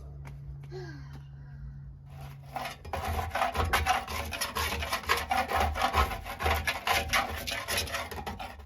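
Rapid back-and-forth abrasive rubbing strokes by hand on a workpiece, starting about three seconds in and stopping abruptly near the end. A steady low hum runs underneath for the first few seconds.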